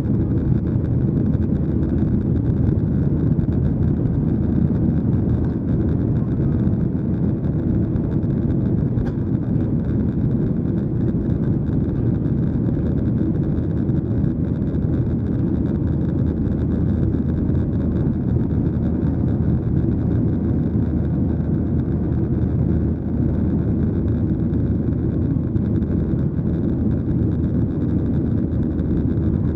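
Steady cabin noise inside a Boeing 737-800 airliner: the CFM56 jet engines and airflow making an even, low drone with no change in level.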